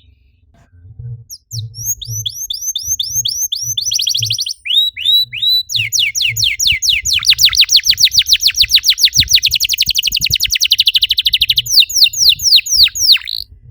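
Domestic canary singing a run of rapid trills: after a brief pause, a series of high falling notes, then a long, very fast rolling trill, then slower falling notes near the end.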